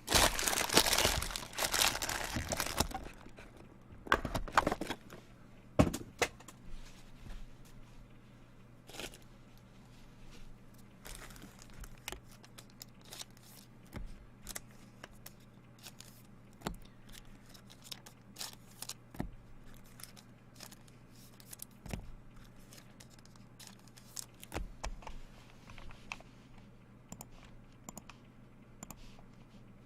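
A trading-card pack wrapper is torn open and crumpled, loudest in the first three seconds with another burst about four seconds in. After that come scattered small clicks and rustles of cards being handled and set down, over a faint steady hum.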